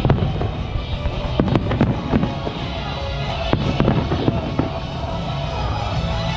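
Fireworks bursting in clusters of sharp bangs, a few near the start, a volley about a second and a half in and another about three and a half seconds in, over continuous music.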